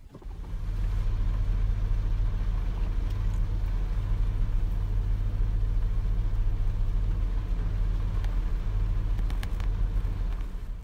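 Steady low engine rumble heard from inside a car, with a few faint clicks near the end.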